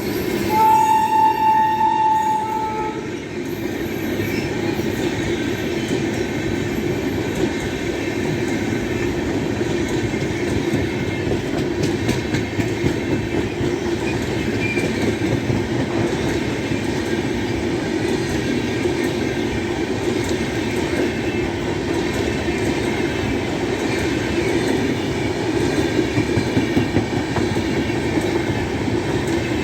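Indian Railways passenger train hauled by an electric locomotive passing close by. The locomotive's horn sounds one steady note for about two and a half seconds near the start, then the continuous rumble and clatter of the wheels and coaches carries on.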